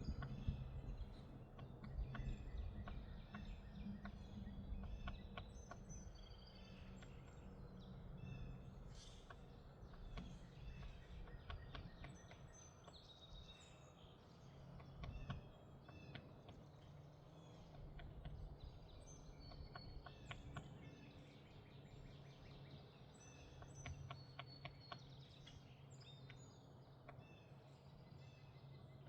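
Faint outdoor birdsong: many small birds chirping in short, scattered calls, over a steady low hum.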